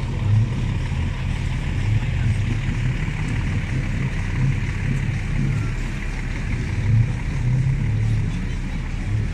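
Truck engine running with a steady low rumble that swells now and then, over a broad background hiss.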